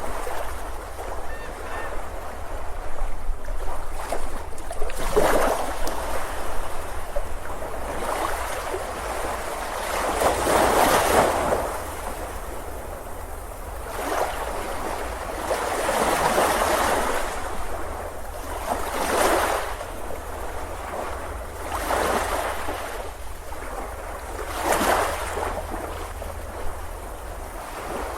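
Ocean surf breaking on a beach, swelling and falling away in washes every few seconds.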